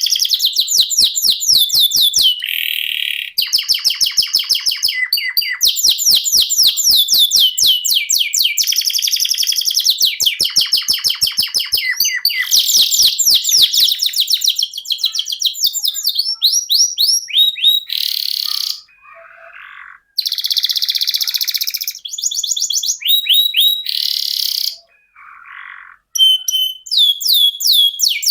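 Domestic canary singing a long rolling song: phrase after phrase of fast trills, each made of rapidly repeated downward-sweeping notes. There are brief pauses about two-thirds of the way through and again near the end.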